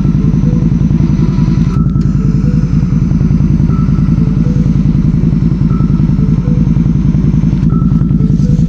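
BRP Outlander 650 ATV's V-twin engine running steadily at a constant speed, loud and close, its firing pulses clearly heard.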